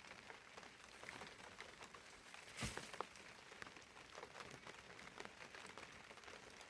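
Near silence with faint scattered ticks and one sharper knock about two and a half seconds in.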